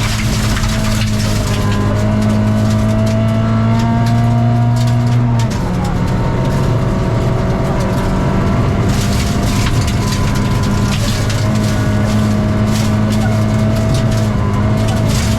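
Rally car engine pulling hard under steady load, its pitch creeping up and then dropping abruptly at an upshift about five and a half seconds in, then holding steady again. Under it runs a steady hiss with scattered sharp clicks.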